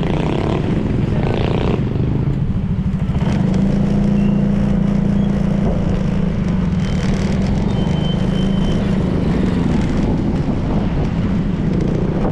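Honda PCX 160 scooter's single-cylinder engine running steadily while riding, with a constant low hum under road and wind noise.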